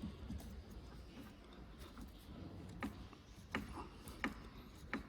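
Faint clicks of a hand tool working a screw loose, four of them evenly spaced in the second half, over quiet room noise.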